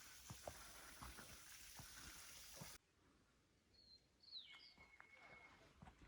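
Faint outdoor forest ambience with a steady hiss and scattered light knocks; the hiss drops out suddenly about three seconds in. A bird then gives one short call, a quick falling note followed by a held whistle.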